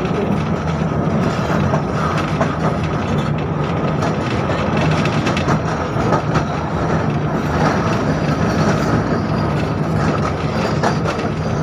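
A 71-605 (KTM-5M3) tram running along the track, a steady rumble of wheels on rail with a constant hum and scattered light clacks.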